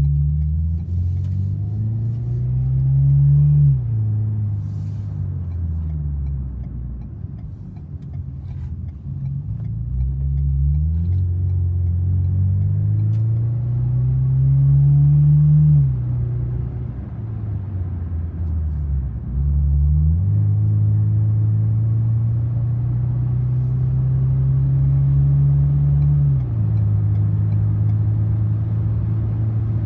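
Ford Maverick 2.0L EcoBoost turbo four-cylinder through an MRT Street Performance straight-through dual-tip exhaust, driving: the exhaust note climbs in pitch under acceleration and drops at each upshift, twice, then holds a steady cruising drone through the last third.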